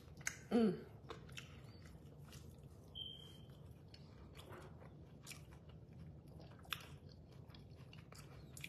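A person chewing a mouthful of toasted-bread scrambled-egg sandwich: quiet, scattered mouth clicks and small crunches. There is a short falling vocal sound about half a second in.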